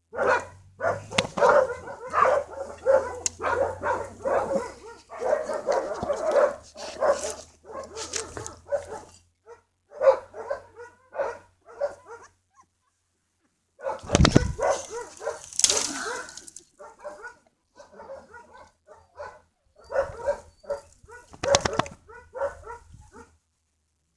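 Dogs yipping and barking in quick runs of short, pitched cries, with a brief pause about halfway through, followed by a louder rustle and knock.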